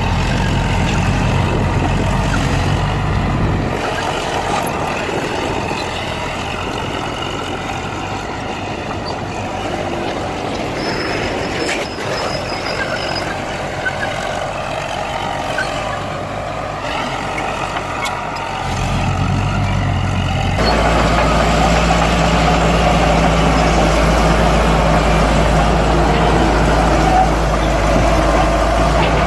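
Heavy diesel engines of bulldozers running at work, a steady drone. It changes abruptly a few times and becomes louder and deeper about two-thirds of the way through.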